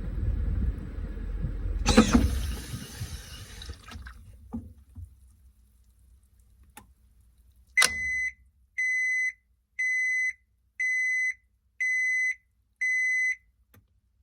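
Washing machine winding down at the end of its cycle: the drum's low rumble fades out with a loud clunk and a short rush of noise about two seconds in, a few small clicks follow, then a click and six evenly spaced electronic beeps, about one a second, signalling that the wash has finished.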